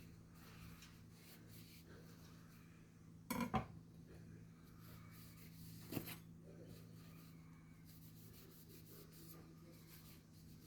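Quiet handling of knives at a workbench: a quick double knock about three and a half seconds in and a single sharp knock about six seconds in, over a faint steady low hum.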